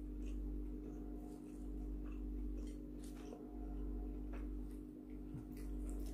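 Close-miked chewing and small wet mouth clicks from someone eating a mouthful of food, with soft handling sounds as fingers pick up leaves and vegetables, over a steady low hum.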